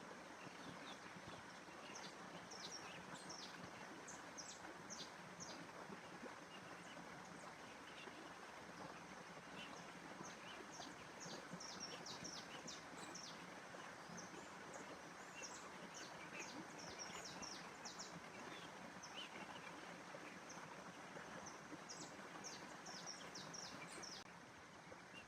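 Outdoor nature ambience: a faint, steady rushing noise under many short, high bird chirps that come in clusters.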